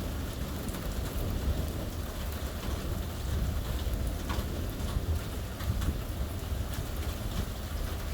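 Steady rain falling in a thunderstorm, with scattered drop hits and a continuous deep rumble underneath.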